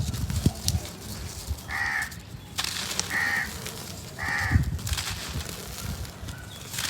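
A crow cawing three times, about a second and a half apart, over the gritty crackle and crumble of dry cement being sifted.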